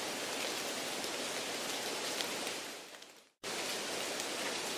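Steady rain-like hiss laid under a listening-test recording as background noise, imitating a noisy exam room. About three seconds in it fades out to a brief silence, then cuts back in abruptly.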